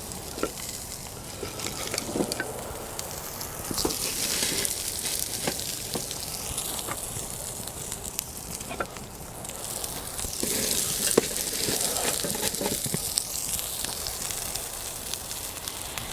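Brussels sprouts sizzling in olive oil in a cast iron skillet over a campfire. The sizzle swells twice, with scattered crackles and knocks throughout.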